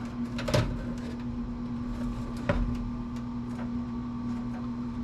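Computer parts being handled during disassembly: two light knocks, about half a second and two and a half seconds in, and a few faint ticks over a steady background hum.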